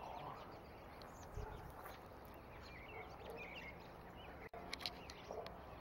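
Faint calls of a large flock of birds, with a few short chirps about three seconds in, over a steady background of outdoor noise; a few sharp clicks near the end.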